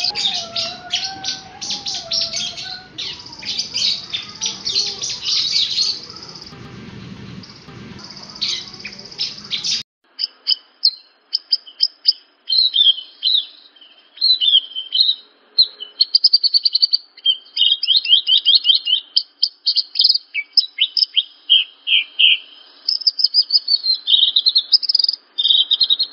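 Song of a Javan bush lark (branjangan) played as a masteran tutor recording: rapid high chirps, buzzy trills and quick whistled notes. About ten seconds in it cuts abruptly from a noisier take with a low background rumble to a clean take of fast, separate trills and notes.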